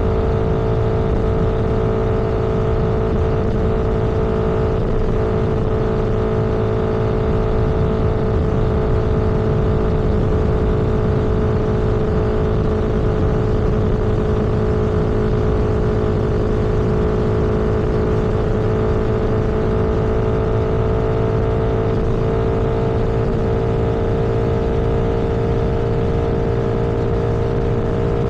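A road vehicle cruising at steady speed: a constant drone from the engine and tyres over low road rumble, its pitch holding almost level.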